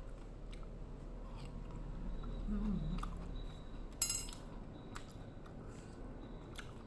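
Metal cutlery clinking sharply once against a plate about four seconds in, amid small scattered clicks of eating and a short low hum from the eater a little before it.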